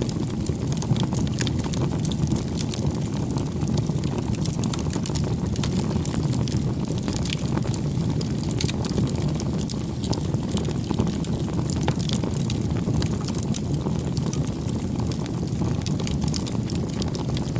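Wood fire burning, with a steady low rush of flame and frequent sharp crackles and pops throughout.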